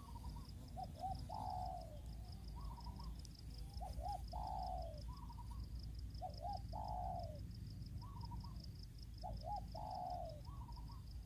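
A dove cooing a repeated phrase: two short notes, then a longer falling note, four times about every two and a half seconds. A steady, fast-pulsing high trill runs underneath.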